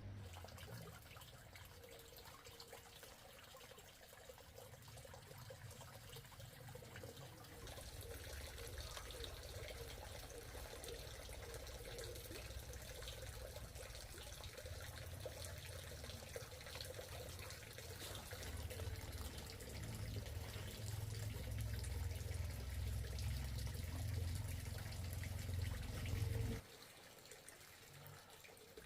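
Water running steadily, as from a tap or hose, splashing and growing louder before cutting off abruptly near the end.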